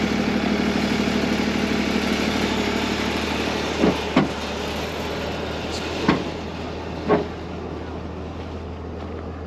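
Vehicle engine running steadily and slowly fading, with four short, sharp knocks about four, six and seven seconds in.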